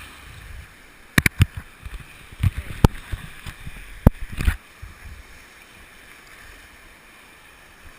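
Seawater splashing and sloshing around a GoPro Hero2 carried by a swimmer, muffled by the camera's waterproof housing. Several sharp knocks and splashes come in the first half, then a steady low wash of water.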